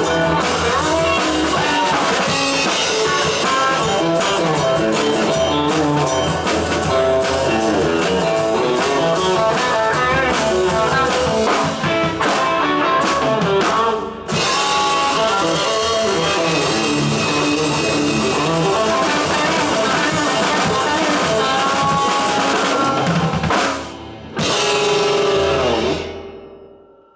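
Rock band with drum kit and guitar playing the final section of a song. The music stops briefly about halfway through, breaks again near the end, then ends on a last chord that fades away.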